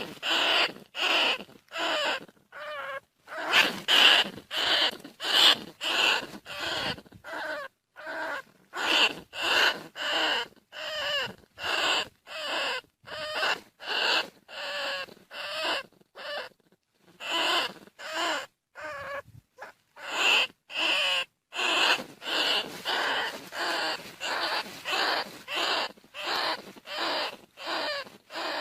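Bandicoot rat calls used as a hunter's lure: short wavering squeals repeated in a steady series, about one every two-thirds of a second.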